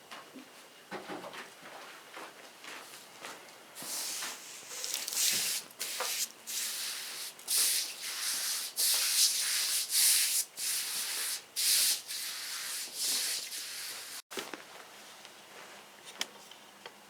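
Water being put onto the freshly sawn surface of a black walnut log to bring out the grain. Through the middle comes a run of short, irregular hissing, rubbing strokes.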